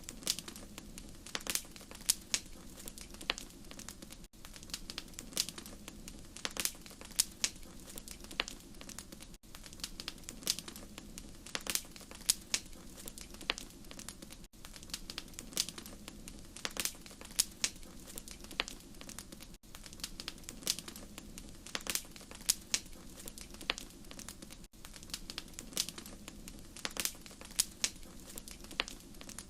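Wood fire crackling, with frequent sharp pops and snaps over a steady low rumble. Every five seconds or so the sound briefly dips, as at the seam of a short repeating loop.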